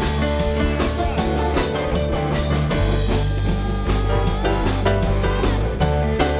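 Live soul-rock band playing an instrumental break without vocals: drum kit keeping a steady beat under bass and guitar, with sustained pitched notes above.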